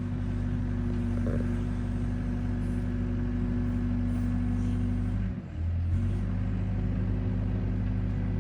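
Excavator's diesel engine running steadily, with a brief dip and change in its note about five and a half seconds in.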